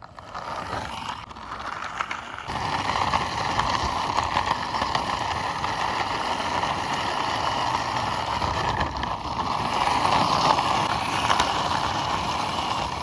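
Plastic toy dump truck pushed by hand along the top of a wall, its wheels rolling with a steady gritty rumble that grows louder about two and a half seconds in.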